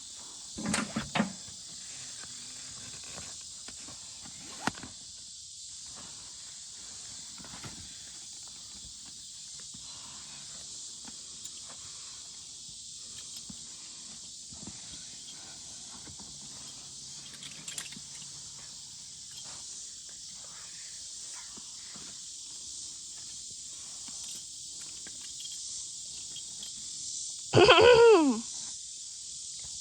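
Quiet knocks and rustles of a horse being saddled, with a steady high hiss behind them and a short cluster of louder clicks about a second in. Near the end comes one loud call that falls steeply in pitch, lasting under a second.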